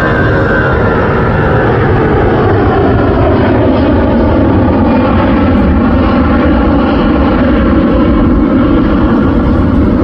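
Boeing 777F's twin GE90 turbofan engines running loud and steady as the freighter taxis, with a whine that falls in pitch over the first few seconds.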